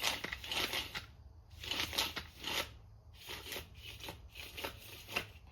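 Recoil starter of a Homelite XL12 chainsaw being worked by hand after restringing: the rope rasps out and rewinds, with the pulley clicking, in a string of short, irregular bursts.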